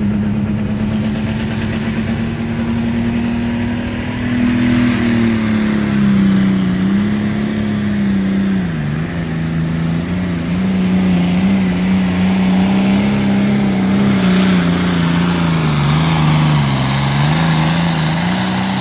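A pulling truck's or tractor's engine runs at high revs under heavy load during a pull down the track. The engine note climbs slightly for the first few seconds, then wavers and sags repeatedly as the load bites, dipping lowest about halfway through and again near the end.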